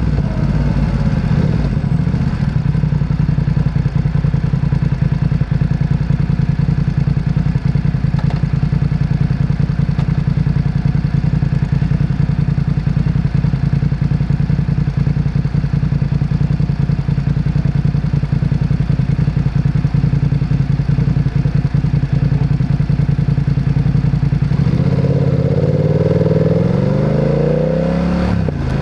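Motorcycle engine running at a steady, unchanging speed for most of the time. Near the end it revs up twice in quick succession as the bike accelerates through the gears.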